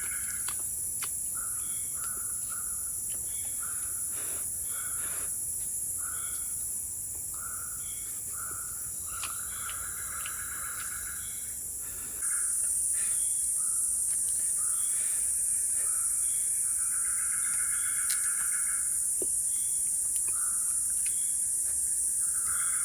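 Tropical forest insects keep up a steady high-pitched drone, which grows louder about halfway through, while short chirping calls repeat every half second or so, some drawn out longer.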